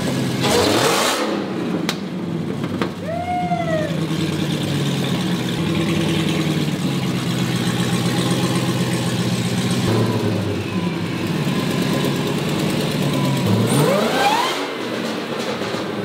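Engine-swapped Mazda Miata's engine running at idle, blipped up in revs about half a second in and again near the end, soon after its first start in about a month.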